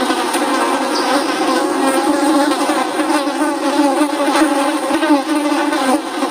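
Flies buzzing, a continuous drone whose pitch wavers as several wingbeat tones overlap.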